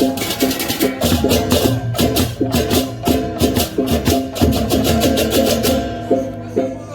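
Balinese gamelan music in the baleganjur style of a procession: fast repeating interlocking metallic tones over drumming, with dense clashing cymbal strokes that stop about six seconds in.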